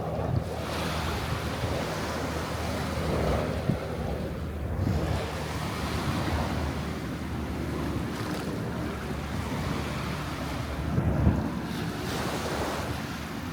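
Small waves washing up on the beach in repeated swells, with wind buffeting the microphone and one stronger gust near the end.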